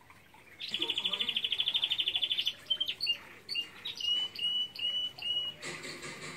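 A songbird singing: a fast, even, high trill lasting about two seconds, then a string of short whistled notes repeated at a steady pace.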